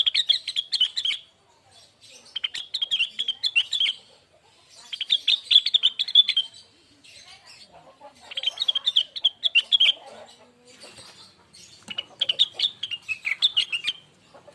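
Cucak rengganis, a leafbird, singing in phrases of rapid high chirping notes, about five bursts separated by short pauses.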